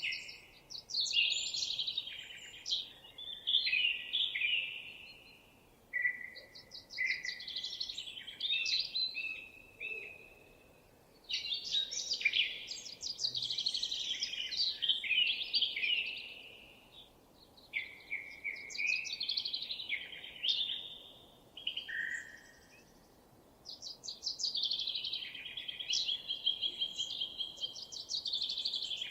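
Songbirds singing in long, varied phrases of quick high trills and chirps, with short pauses between phrases.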